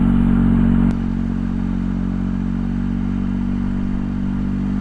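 Motorcycle engine running steadily at cruising speed, easing slightly about a second in and then holding a steady note.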